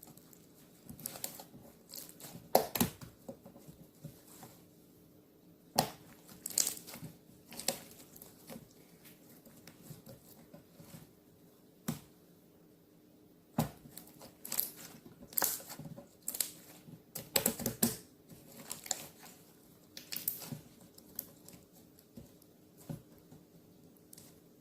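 Handmade slime being squeezed, stretched and pressed by hand, giving irregular sticky clicks, pops and crackles in bursts with quiet gaps between.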